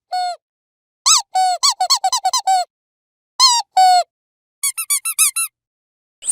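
Dog squeaky toy squeezed over and over: a single squeak, then a fast run of about eight squeaks, two longer squeaks, and a quick run of higher-pitched squeaks, with short pauses between the groups.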